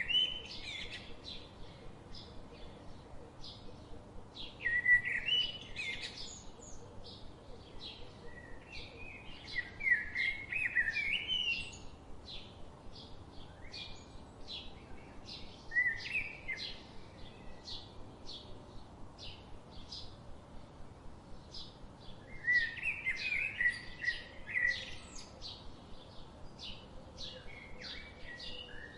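Songbirds singing: one bird repeats short high chirps at about two to three a second throughout. Louder warbling song phrases break in over it in bouts, about five times.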